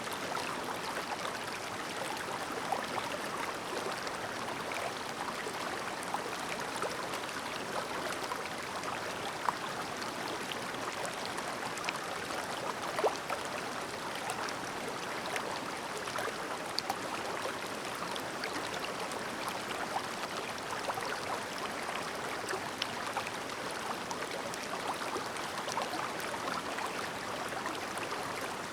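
A clear mountain stream babbling steadily, with small splashing ticks scattered through the flow.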